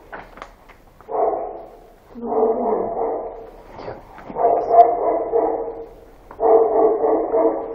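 A dog barking in four drawn-out, pitched barks, roughly one every two seconds.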